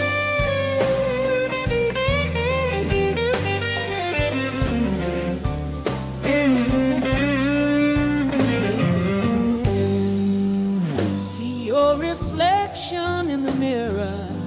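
Blues music, an instrumental passage: a guitar lead with bending, sliding notes over a steady beat.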